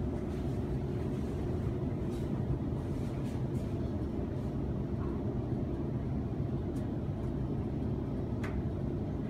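Steady low rumble of a Sydney Trains Waratah electric multiple unit running between stations, heard from inside the carriage, with a few faint clicks along the way.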